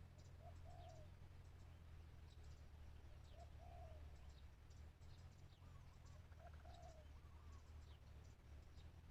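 Spotted dove cooing faintly, a short low call three times about three seconds apart, with faint high chirps of small birds and a low steady hum underneath.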